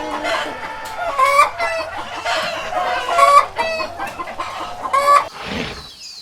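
Chickens clucking and calling, a run of short repeated calls that overlap one another and stop about five seconds in.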